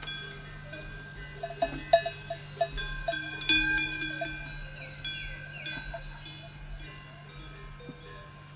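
Metal bells clanking and ringing irregularly, several notes overlapping, with the sharpest strikes about two seconds and three and a half seconds in.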